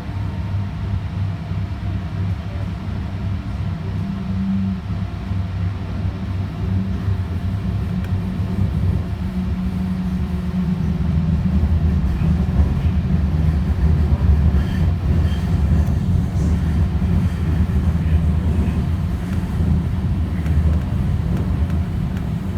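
Alstom Citadis Spirit light-rail train of Ottawa's O-Train Line 1 running at speed between stations, a steady low rumble of wheels on rails and traction gear, growing louder about halfway through and easing off near the end.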